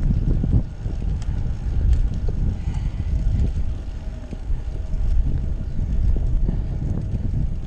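Wind buffeting the microphone of a camera carried on a moving bicycle, a dense low rumble, with small knocks and rattles from the ride throughout.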